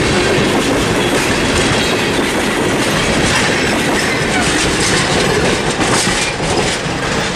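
Freight train of tank cars rolling through a road crossing: a steady rumble of steel wheels on rail, with the wheels clacking over the rail joints and the crossing.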